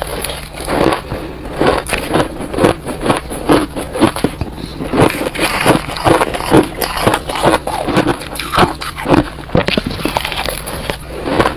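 Close-miked crunching and chewing of soft, chunky freezer-frost ice: dense, irregular crackling crunches as the ice is bitten and ground between the teeth.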